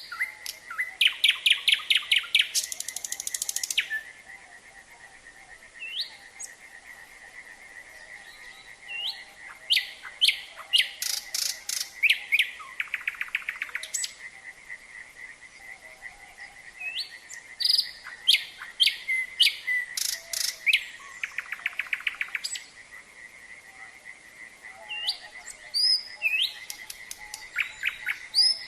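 Nightingale singing in loud phrases of rapid repeated notes and whistles, four bursts with pauses of a few seconds between. Underneath, a frog chorus keeps up a steady high trill.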